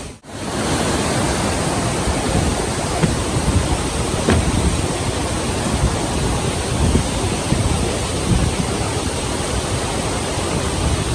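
Steady rush of a large waterfall, an even roar of falling water.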